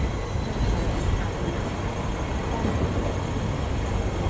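Steady low rumble of passing road vehicles.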